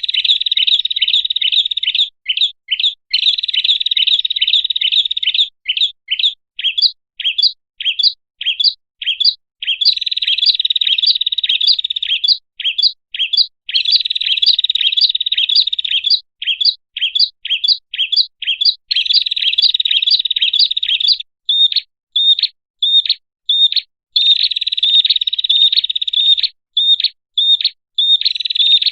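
Prinia (prenjak) call, as played for luring prinias: a rapid run of sharp, high chirps alternating with stretches of fast, dense trilling, repeating over and over.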